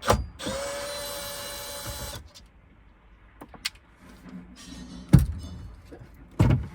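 Cordless drill-driver running a screw for about a second and a half, a steady whir that stops abruptly, after a knock at the start; a few clunks and knocks of tools and parts follow.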